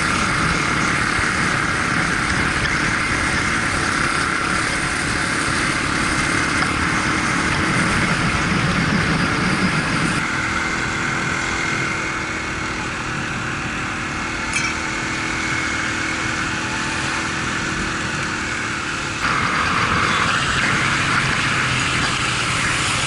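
Honda XR250 single-cylinder motorbike running steadily on the road, with a continuous mix of engine and rushing noise. The sound changes abruptly about ten seconds in and again near nineteen seconds.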